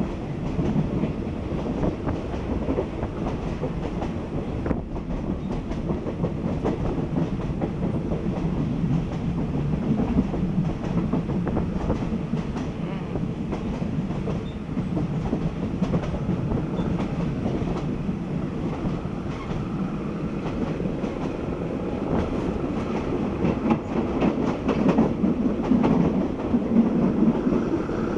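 Passenger train running, heard from inside a carriage at the window: a steady rumble with wheels clattering over the rail joints.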